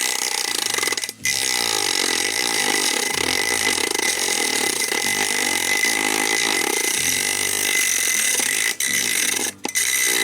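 Homemade mini grinder, a 12-volt DC motor in a PVC-pipe body, running at high speed with a loud, steady whine. It cuts out briefly about a second in and again near the end.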